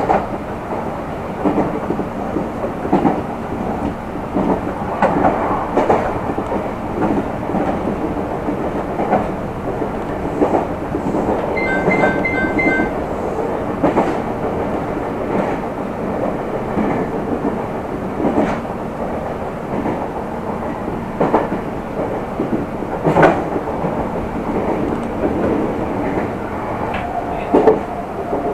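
Meitetsu express train running at speed, heard from inside the front car: steady running noise with irregular clacks and knocks from the wheels over rail joints. About twelve seconds in, a short burst of pulsed two-tone ringing, typical of a level-crossing bell passing by.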